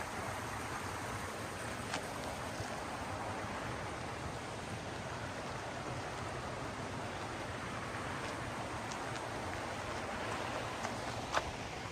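A mountain stream rushing steadily over rocks, with a single sharp click near the end.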